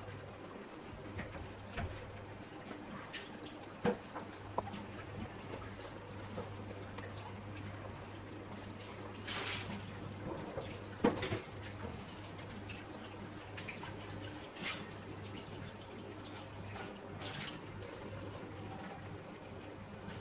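A spoon scooping and ladling thick chicken curry gravy from the pot into a serving dish: soft wet handling sounds with a few light clinks, over a steady low hum.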